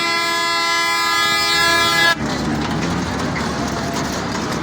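Mini fairground train's horn sounding one long, steady, many-toned blast that cuts off suddenly about two seconds in, followed by a steady noisy background.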